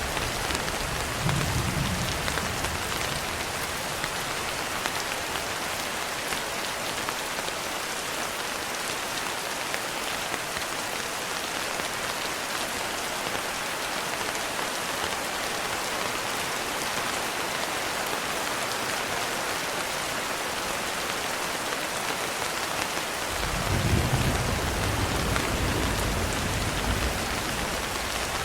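Steady rain falling, an even hiss throughout. A low rumble of thunder fades out in the first couple of seconds, and another rolls in about 23 seconds in, loudest around 24 seconds and carrying on to the end.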